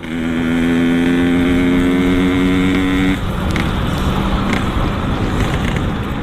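Yamaha RX-King's 135 cc two-stroke single running through a Boban C33 aftermarket exhaust while riding, held at steady revs for about three seconds, after which the steady note drops out into rougher noise.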